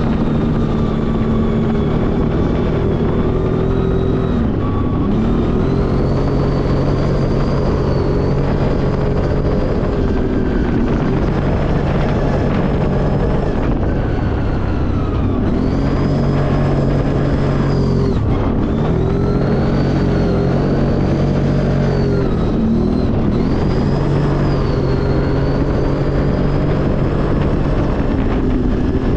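ATV engine running under load while riding up a mountain track. Its pitch holds for a few seconds at a time, then dips and climbs again several times as the throttle is eased and reopened, over a steady low rumble.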